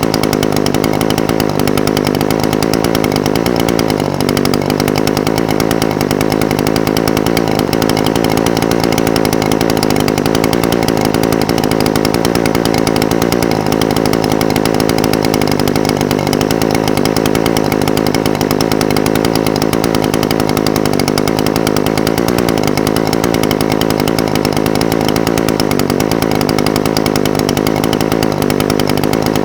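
Echo SRM-420TES brush cutter's two-stroke engine idling steadily, its pitch holding even throughout.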